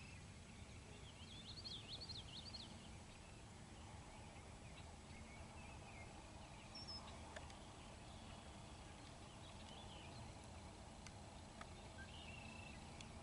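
Near silence: faint outdoor ambience with a few faint bird chirps, a quick cluster of them about two seconds in and single short notes later.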